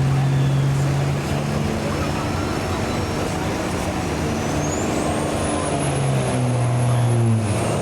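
Engine of a pulling truck or tractor running hard and steady under load down the track, with a high whine that rises about four and a half seconds in and then holds.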